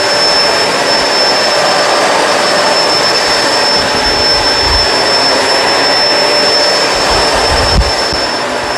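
Kenmore Crossover Ultra upright vacuum cleaner running steadily, a loud even rush of suction with a thin high whine, and a few low thumps from the machine being pushed along.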